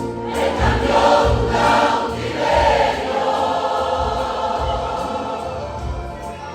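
A church choir singing a worship song, with deep bass notes pulsing underneath.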